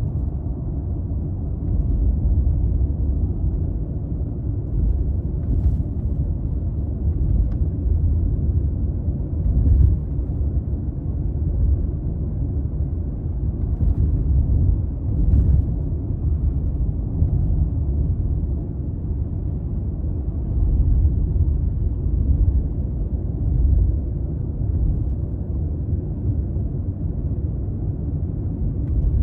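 Toyota Crown Athlete (200-series, 2.5 L V6) driving: a steady low rumble of road and engine noise with small swells, and a few faint clicks.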